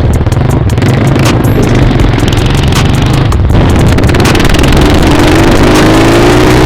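Dirt bike engine running under way, with wind rushing over the microphone and scattered knocks in the first half. From about two-thirds of the way in the engine pitch climbs steadily as the bike accelerates.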